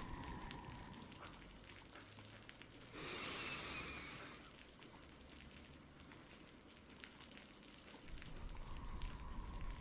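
Steady soft rain ambience, with a louder hiss lasting about a second about three seconds in and a low rumble building near the end.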